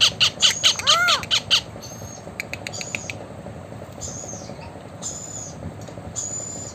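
Blue Indian ringneck parakeet calling: a fast run of loud, harsh squawks with a rising-and-falling whistle for about the first second and a half, then a few short, faint high whistles.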